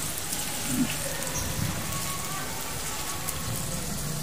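Sliced meat and onion rings sizzling on an electric grill pan: a steady frying hiss with fine crackling.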